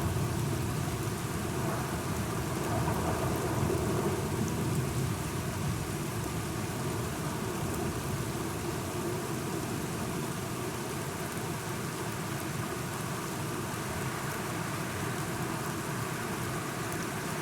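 Steady rain, with a low rumble of thunder swelling a few seconds in.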